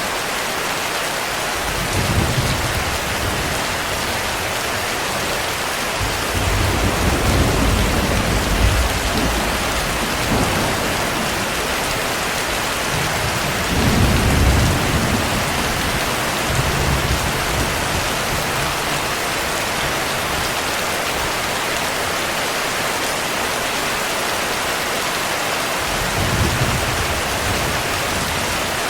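Steady heavy rain with rolls of thunder: a short rumble about two seconds in, a longer one a few seconds later, the loudest around the middle, and a brief one near the end.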